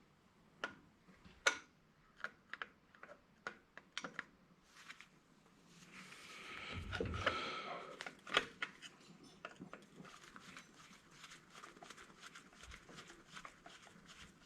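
Scattered light clicks and taps of small metal parts being handled on a workbench. Partway through there is a louder scraping rustle, and after it a run of quick light ticks.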